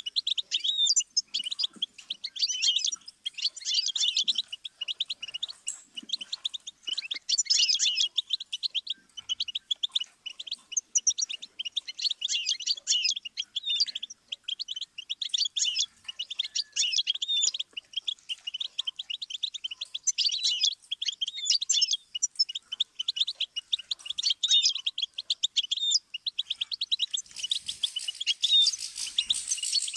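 Goldfinch singing: a long run of rapid, high twittering phrases with short breaks between them, turning hissier near the end.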